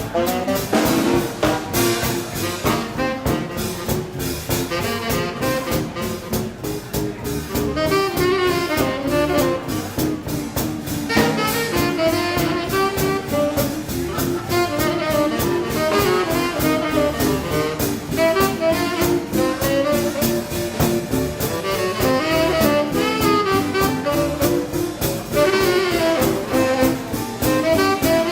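Live swing band playing an instrumental: saxophone and brass horn lines over a steady, driving drum beat.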